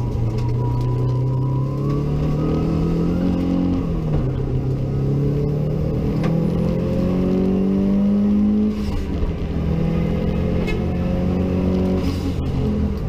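Turbocharged rally car engine heard from inside the cabin under hard acceleration. The engine note climbs steadily and then falls back sharply between gears, about four seconds in, near nine seconds and again near the end.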